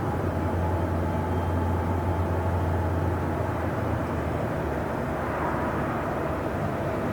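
Train station ambience: a steady low rumble of trains with a hum that is strongest for the first three seconds or so and then eases, under a faint steady whine.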